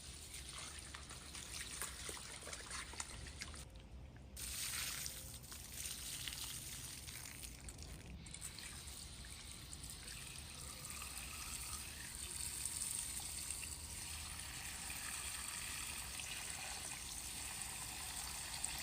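Water running and trickling from a tap into a pot as mutton is rinsed, stopping briefly about four seconds in and again near eight seconds, then running steadily.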